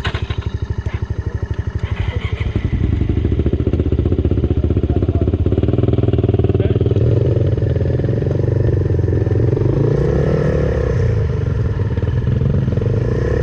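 Suzuki Van Van 125's single-cylinder four-stroke engine through an aftermarket full exhaust, firing in slow, distinct pulses at low revs, then opened up about two and a half seconds in and running louder and steadily under load. The revs waver briefly near the end.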